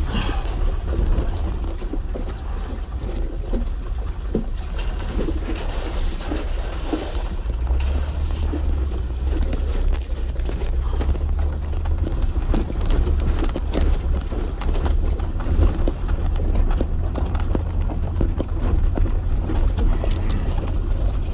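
Off-road vehicle climbing a rough mountain trail: a steady low rumble of engine and tyres, with scattered knocks and rattles.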